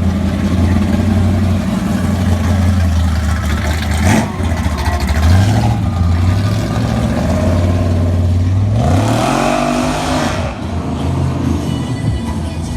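Car engine idling with a deep steady note, then revved twice: a short rise about five seconds in and a bigger rev near nine seconds that climbs and drops back.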